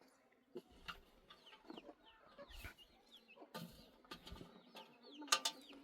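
Chickens clucking, with many short high chirps and a few sharp knocks; the loudest knock comes a little after five seconds in.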